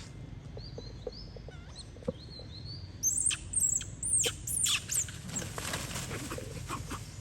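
Monkeys squealing: a burst of several shrill, sharply falling shrieks about three seconds in, after a few faint light taps.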